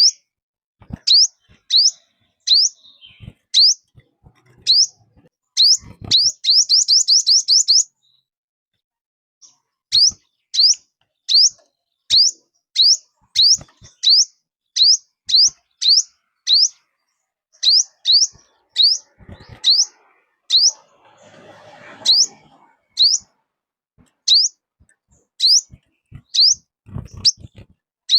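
A small songbird, the bird called 'chim 5 màu' (five-colour bird) in Vietnam, repeating short, high, downward-slurred call notes about twice a second, with a quick rapid run of notes around six seconds in and a brief pause after it. The calls are a lure recording for trapping wild birds.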